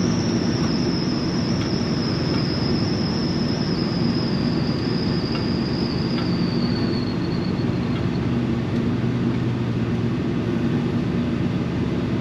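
Chevy C-10 pickup driving, heard from inside the cab: a steady engine and road drone, with a thin high whistle that slowly falls in pitch and fades out about seven seconds in.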